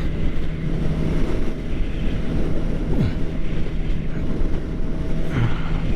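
2013 Suzuki GSX-R600's inline-four engine running at a steady speed under way, with wind noise rushing over the microphone.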